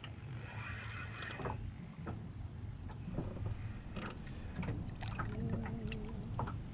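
Small jon boat with a hooked channel catfish being brought in: irregular knocks and clicks over a low rumble, with a short wavering squeak about five seconds in.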